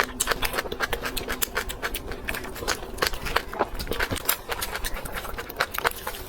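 Close-miked chewing and biting of grilled chives off a skewer: irregular wet clicks and smacks, several a second.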